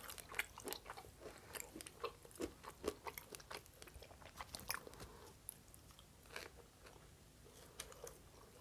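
Biting into and chewing pizza crust close to the microphone: crisp crunches and mouth clicks, dense over the first five seconds, then sparser.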